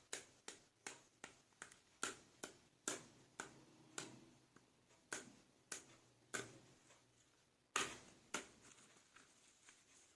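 Small plastic toy figures being handled and set down: a faint, irregular string of light clicks and taps, roughly two a second, the sharpest near eight seconds in.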